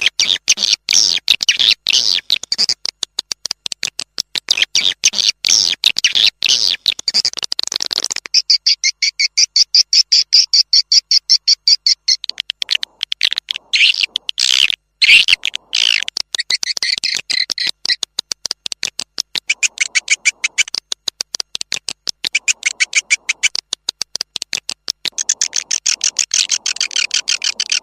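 Swiftlet lure sound: dense, very rapid twittering chirps of swiftlets, high-pitched, shifting in pattern every few seconds.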